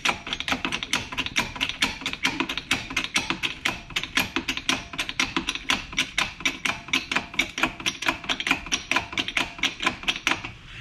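A jack being worked up against a rusted tie rod end stud to press it out of the steering knuckle: a steady, rapid run of sharp mechanical clicks, about seven a second, without a break.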